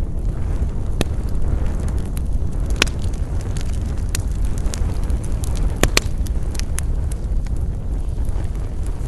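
Wood fire burning with a steady low rumble and frequent sharp crackles and pops, a loud one about three seconds in and a close pair of pops near six seconds.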